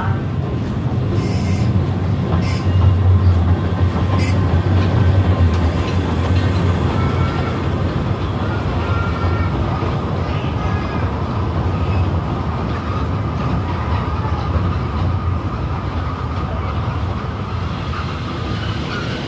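Kurobe Gorge Railway narrow-gauge trolley train, an electric locomotive hauling passenger cars, pulling into the station and rolling past at close range. Its wheels make a steady low rumble on the rail, with a few sharp clicks in the first seconds. A thin metallic squeal runs through the later part as the cars go by.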